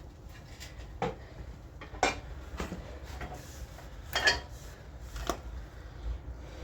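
Sharp metal clanks of a steel wrench and steel plate knocking together as the scored plate is pried and bent by hand, about five strikes with the loudest a little past four seconds in.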